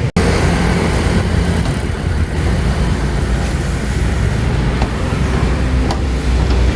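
Steady low rumble of a motor vehicle on the road, after a momentary gap at the very start.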